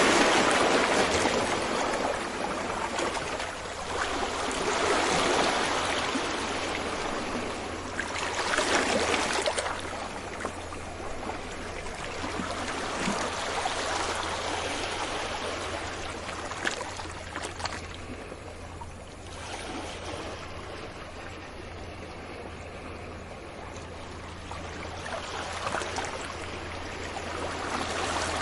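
Ocean waves washing up on a beach: a steady rush of surf that swells with each incoming wave. It is loudest in the first ten seconds, quieter through the middle, and builds again near the end.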